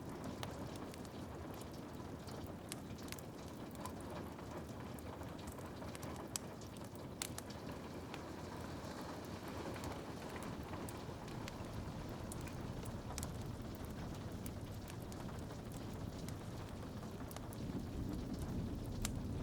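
Steady rain on a window, with scattered sharp crackles and pops from a wood fire over a low rumble. A couple of louder pops come about a third of the way in, and the rumble swells near the end.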